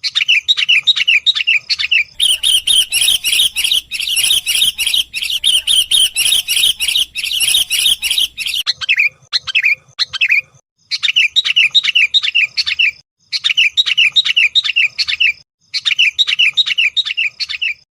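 Sooty-headed bulbul calling in quick chattering phrases of rapid notes, in bouts of about two seconds with short pauses between them, and one longer, denser run from about two to eight seconds in.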